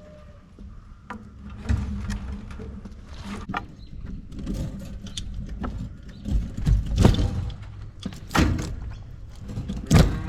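A series of irregular knocks and clanks, the loudest about 7, 8.5 and 10 seconds in, over a low rumble of wind on the microphone.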